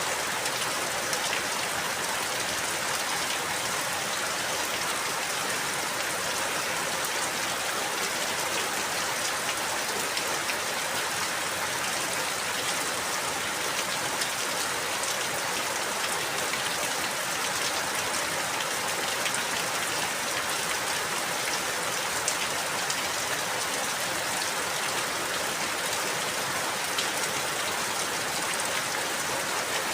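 Steady rain falling, a constant hiss of drops with fine patter spread through it.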